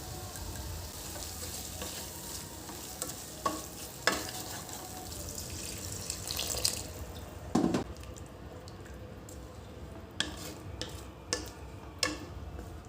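Food frying and sizzling in a pan while a utensil stirs it and knocks against the pan. The sizzle stops about seven seconds in, leaving a few sharp clinks of utensils.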